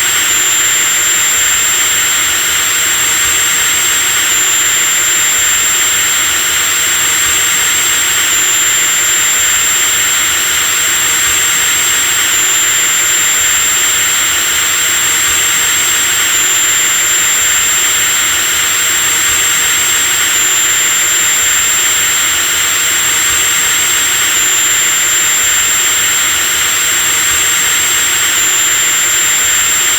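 Electric drill running continuously at a steady speed: a loud, even motor noise with a high whine on top, the whine dipping slightly about every four seconds.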